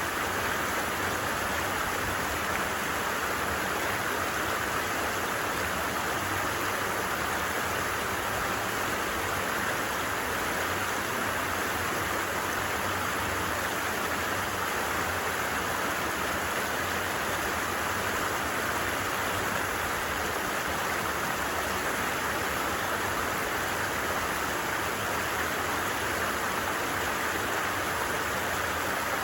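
A stream flowing steadily, with an even, continuous rush of water.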